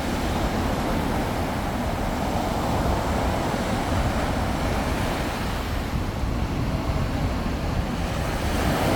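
Sea waves surging and washing on the shore in a continuous wash, swelling louder about three seconds in and again near the end, with wind rumbling on the microphone.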